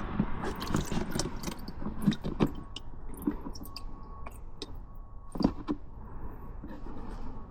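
Metal parts of an ATV CV joint being handled during cleaning: irregular clinks and knocks, with a sharper knock about two seconds in and another about five and a half seconds in.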